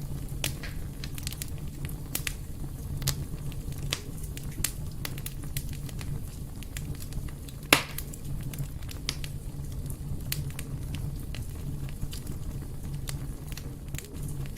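Fire burning in a fireplace: a steady low rumble of flames with irregular crackles and pops, one sharper, louder pop about halfway through.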